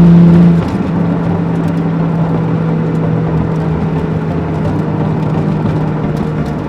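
Toyota 1JZ twin-turbo straight-six heard from inside the cabin, running loud at steady revs, then dropping in loudness about half a second in and carrying on at the same pitch under a steady hiss.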